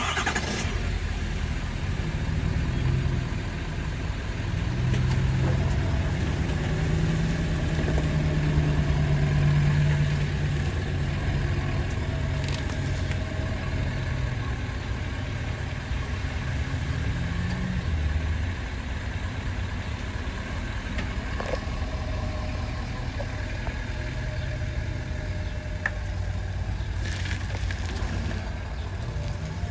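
Two CSX GE diesel-electric freight locomotives running under power as the train passes, a low engine drone that swells about a third of the way in and then eases off.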